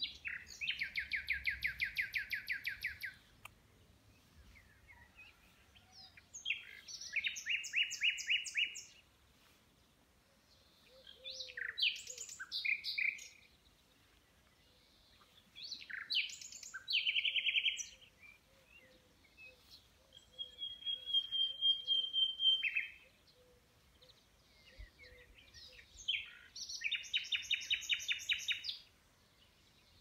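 A songbird sings loud phrases every four or five seconds, each lasting two to three seconds. Most phrases are fast runs of repeated notes; one is a long, steady whistle.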